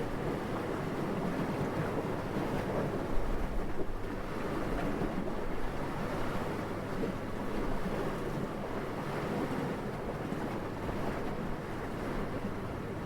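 Steady, even wind noise with no tones or rhythm, swelling briefly about three to four seconds in.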